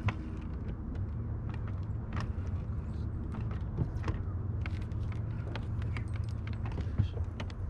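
Boat motor humming steadily, with scattered light clicks and taps throughout.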